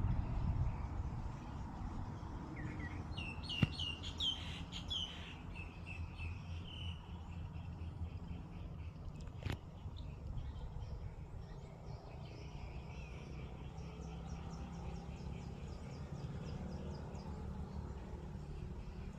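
Small birds chirping in a garden: a burst of quick high chirps a few seconds in, and later a fast, faint trill of high notes. Underneath is a steady low rumble, with two sharp clicks.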